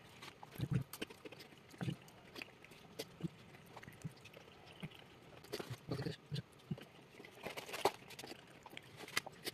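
Close-miked chewing and mouth sounds of a person eating, with irregular smacks and clicks.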